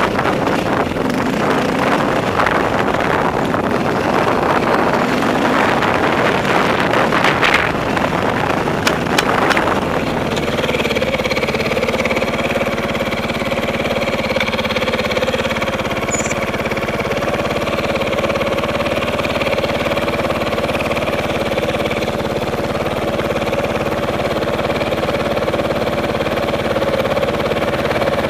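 Dirt bike engine running while riding, under a rough noisy rush with a few sharp knocks. About ten seconds in it settles into a steady idle.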